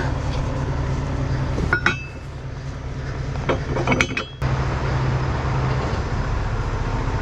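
Steel tow forks clanking with a ringing metallic clink, once about two seconds in and again about four seconds in, over the steady idle of the wrecker's Cummins X15 diesel.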